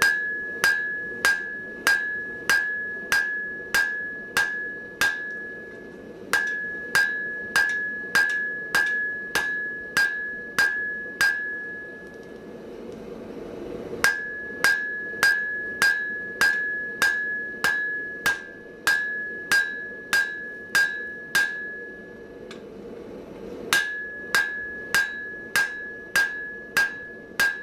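Hand hammer striking hot mild steel on an anvil, steady blows at about one and a half a second, each with a clear ringing tone from the anvil. The hammering comes in three runs, with short pauses about twelve and twenty-two seconds in.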